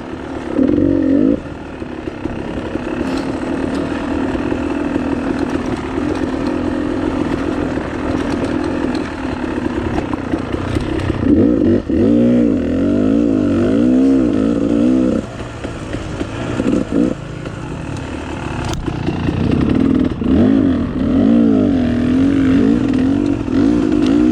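Dirt bike engine running on the trail, the revs rising and falling quickly over and over for a few seconds around the middle and again near the end, with steadier running between.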